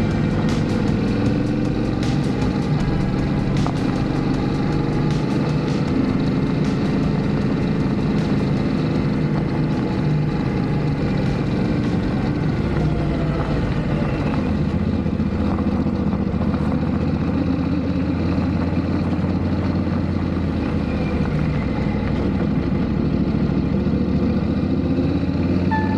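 Yamaha Ténéré 700's parallel-twin engine running steadily under way, with wind rush over it. The engine note changes about halfway through.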